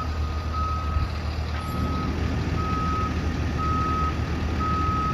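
A heavy truck's back-up alarm beeps steadily, one even high-pitched beep about every second, over the low rumble of the truck's engine running. This is the reversing warning of a truck, likely the crane tow truck manoeuvring at the scene.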